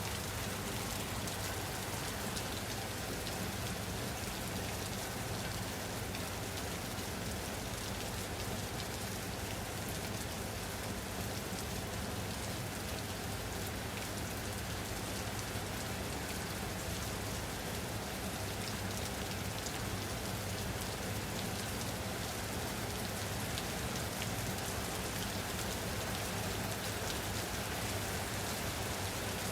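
Steady rain falling on a surface, an even hiss with fine scattered drop ticks and no thunder.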